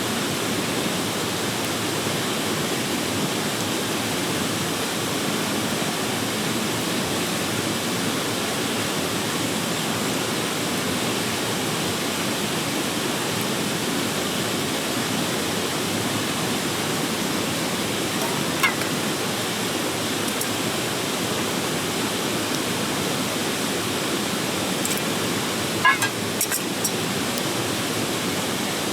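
Mountain stream rushing steadily over rocks. A single short knock comes about two-thirds of the way in, and a brief cluster of clicks near the end.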